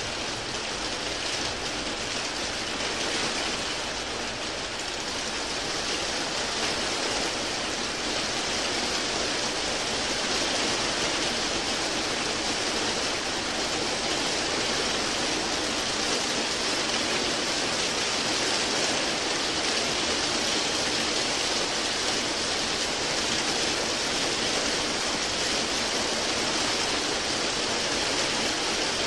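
Steady rain: an even, unbroken hiss with no single drops, thunder or other sounds standing out.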